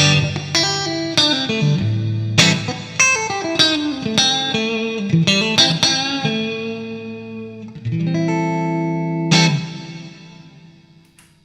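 Fender Strat Plus electric guitar played through a Fractal FX8 MK2 effects unit: picked single-note runs and ringing chords. A last chord is struck near the end and fades out to near silence.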